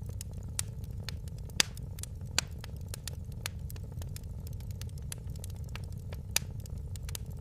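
Wood fire in a fireplace crackling, with irregular sharp pops over a steady low rumble. The loudest pop comes about a second and a half in, another near the end.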